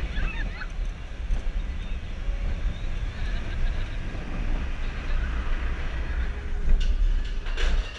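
Expedition Everest roller coaster train rolling along its track, a steady low rumble with wind on the microphone and a few sharp clacks near the end.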